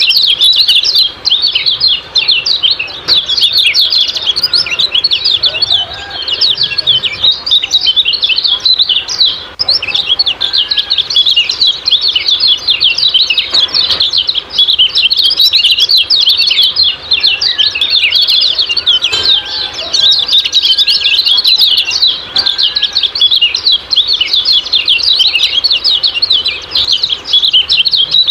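Kecial kuning (a white-eye) giving a fast, continuous 'ciak-ciak' chatter of short, high chirps packed closely together without pause. It is a masteran recording used to get cage birds calling.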